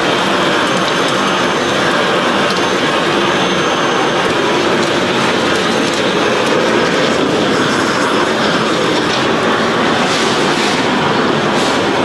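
Continuous machinery noise: a steady, dense mechanical clatter and rumble.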